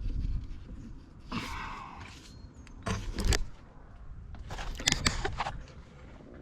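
Several short clanks and rattles of hand work on metal parts, coming in three brief clusters.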